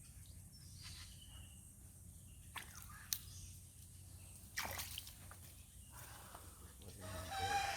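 Faint sloshing and dripping of creek water, with a few sharp knocks about a third and then halfway through.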